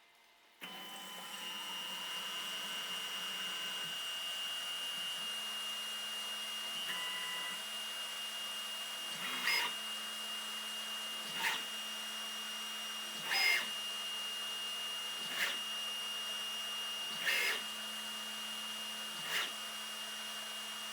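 CNC mill spindle starting about half a second in and running with a steady high whine, then a drill bit cutting into the soft jaws six times, about two seconds apart, run dry without coolant.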